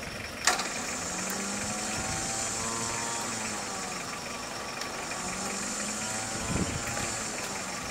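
Diesel 4x4 engine running during a mud recovery, its pitch slowly rising and falling. There is a sharp click about half a second in.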